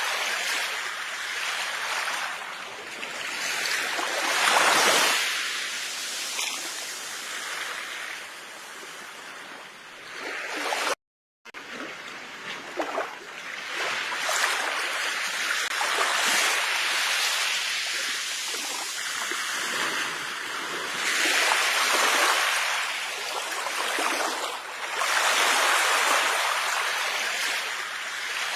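Ocean waves washing onto a shore, each wave swelling and fading over a few seconds. About eleven seconds in, the sound cuts out completely for about half a second, then resumes.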